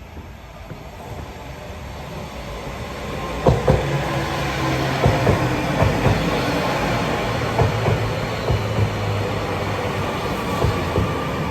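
A train approaching and running along the platform, growing louder over the first few seconds. From about three and a half seconds in, its wheels click repeatedly over the rail joints above a steady low hum.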